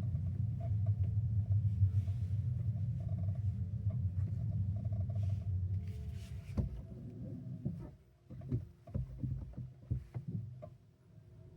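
Kia EV3 GT-Line heard from the cabin, first with a steady low road rumble while rolling. About halfway in the rumble drops away as the car slows, and a run of irregular sharp creaks and cracks follows. This is the creaking that comes from the lower front of the car on deceleration, even with regenerative braking turned off.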